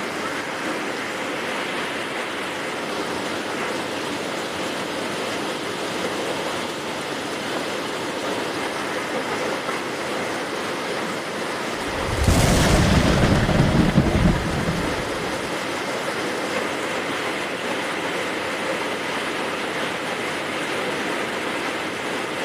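Heavy rain falling steadily, with a thunderclap about halfway through: a sharp crack followed by a deep rumble lasting about three seconds.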